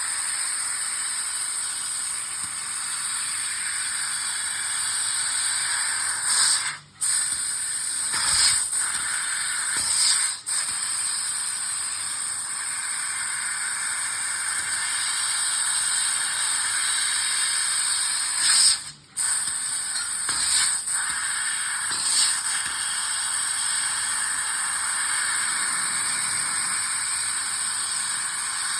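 3000 W fibre laser cutting 3 mm mild steel with compressed-air assist gas: a steady high hiss from the air jet at the cutting head. The hiss drops out briefly three times, about seven, ten and nineteen seconds in.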